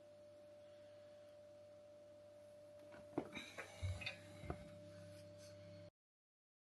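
Near silence: a faint steady hum with a thin high tone, and a few light clicks and knocks about three to four and a half seconds in. The sound cuts off abruptly near the end.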